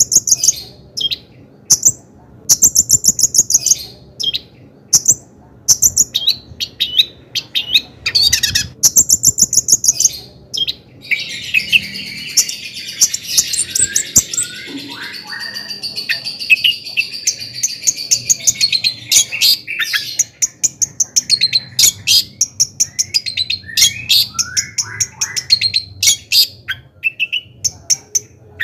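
Long-tailed shrike singing vigorously: rapid strings of short, sharp high notes, breaking about a third of the way in into a run of dense, varied warbling, then back to quick chips and some down-slurred whistles.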